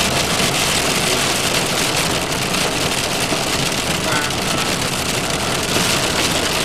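Steady noise inside a car driving slowly: engine and tyres on the road.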